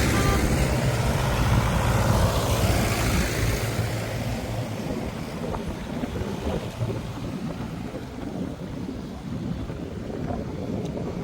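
Tractor engine running loud and steady for about four seconds, then fading into a lower, rougher rumble as it moves away.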